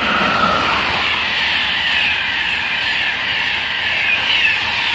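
Train passing close by: a loud, steady rush of wheels on rail, with a whine that drops in pitch about half a second in.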